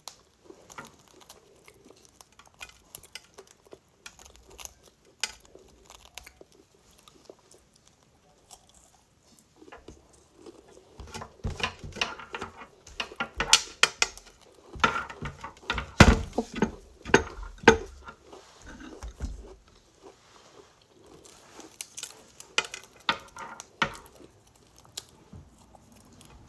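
Crunchy chewing of food close by, with sharp clicks and taps like dishes and cutlery; sparse at first, then denser and louder through the middle stretch.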